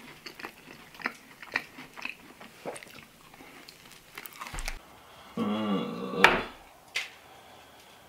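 A man chewing a mouthful of iced cupcake with wet, sticky mouth clicks, then a drawn-out vocal sound about a second long from the eater. A sharp knock comes partway through that sound.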